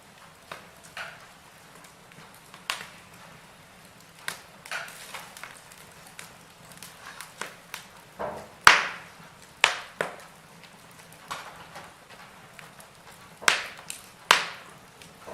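Wood fire burning in a fireplace, with irregular crackles and sharp pops from the logs over a low hiss; the loudest snaps come in the second half.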